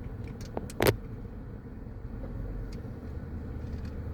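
Steady low rumble of cars and traffic, with a sharp bang just under a second in, just after a fainter click. The bang could be a distant firework or a car door.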